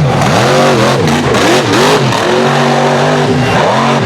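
Supercharged big-block V8 of a mega truck revving hard, its pitch dropping and climbing back again about four times as the throttle is worked on and off.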